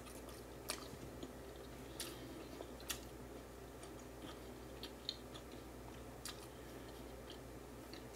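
Close chewing of grilled jerk neck bone meat, faint, with a handful of short wet mouth clicks and smacks scattered through it.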